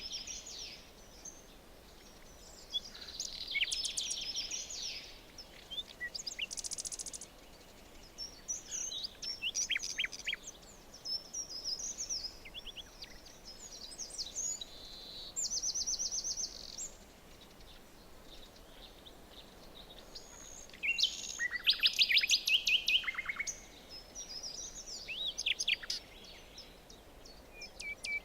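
Several songbirds singing in a forest, a run of separate phrases: chirps, quick falling notes and fast repeated trills, the loudest a rapid trill about three quarters of the way in.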